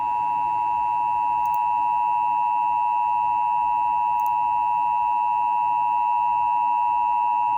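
Emergency Alert System attention signal: a steady two-tone alarm tone held for about eight seconds, then cut off sharply. It announces the tornado warning that follows.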